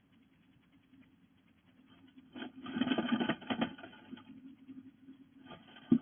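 Bluebird moving about inside a wooden nest box: scratching and rustling of claws and nest material in two bursts, about two seconds in and again near the end, over a faint steady low hum.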